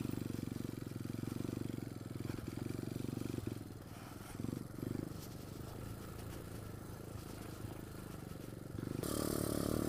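Pit bike's small single-cylinder engine running steadily at low revs. It runs softer through the middle and picks up again about nine seconds in.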